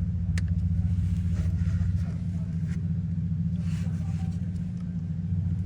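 Mercedes-AMG M177 4.0-litre twin-turbo V8 idling with a steady low rumble. A single sharp click comes about half a second in.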